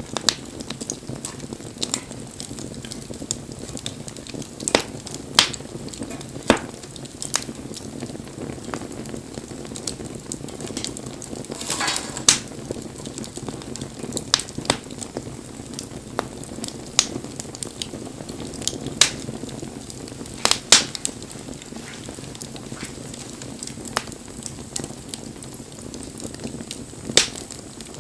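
Wood fire crackling, with sharp pops and snaps at irregular intervals over a steady hiss, and a brief louder hiss about twelve seconds in.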